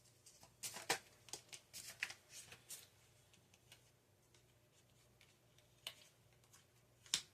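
Tarot cards being handled: a flurry of crisp card flicks and snaps in the first three seconds, then two single snaps later on.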